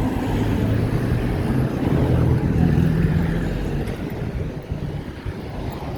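Road traffic: a vehicle engine passes close by, loudest about two to three seconds in and fading after, with wind on the microphone.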